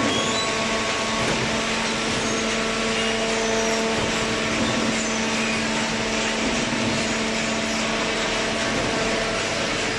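Hydraulic cardboard baler running: a steady hum from its motor and hydraulic pump over an even mechanical noise.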